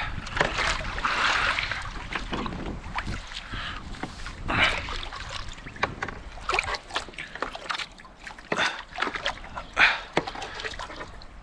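Water splashing and sloshing against a kayak, with scattered knocks and rustles, as a fish tangled on the kayak's anchor line is pulled in by hand.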